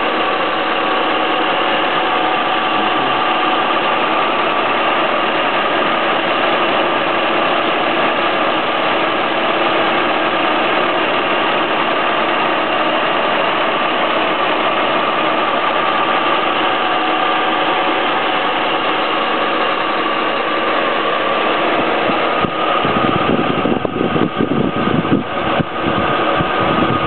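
A 1958 Rolls-Royce Silver Cloud I's F-head straight-six idling steadily with the bonnet open. Most of the sound is the engine's cooling fan, a steady hum with a few held tones. Near the end, low, uneven buffeting joins in.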